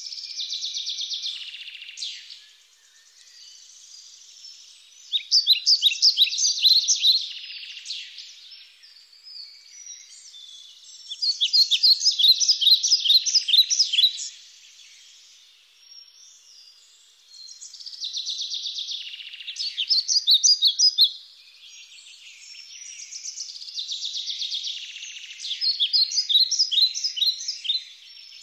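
A songbird singing, in phrases of rapid, high chirps lasting a few seconds each, with short pauses between phrases.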